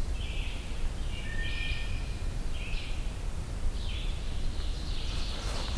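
Songbirds singing in woodland: several short, high, hazy phrases about a second apart, and one brief thin whistle, over a steady low rumble.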